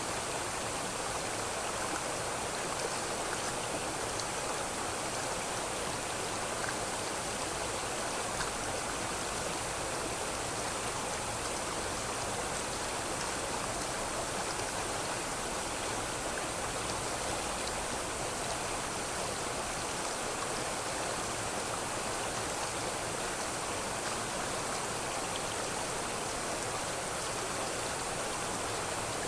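River water flowing over rocks: a steady, even rushing and babbling with no breaks.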